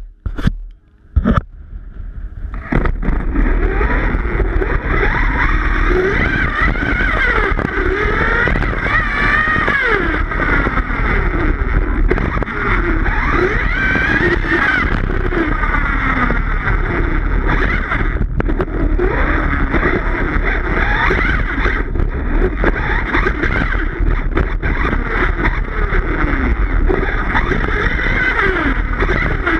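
Redcat Rampage XBE 1/5-scale electric RC truck driving on grass: its motor and drivetrain whine keeps rising and falling with the throttle over a steady rushing noise. It starts about two and a half seconds in, after a couple of short knocks.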